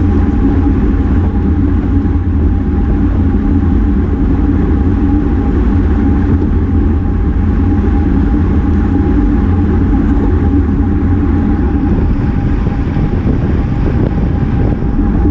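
Wind rushing over the mic of a GoPro on a racing road bike at speed, a loud, steady low rumble with a constant thin whine through it.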